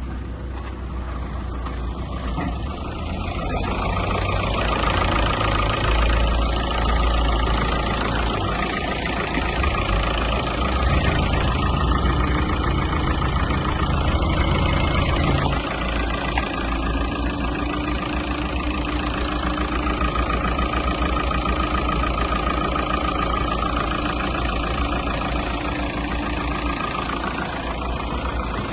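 Seat Toledo's 2.0 TDI pump-injection (BKD) four-cylinder turbodiesel running in an engine test. It gets louder a few seconds in and settles a little lower about halfway through.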